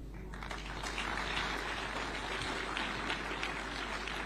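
Audience applauding: a dense, even patter of many hands clapping that starts a moment in and carries on steadily.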